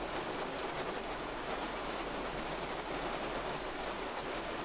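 Steady rain falling: an even hiss with no breaks.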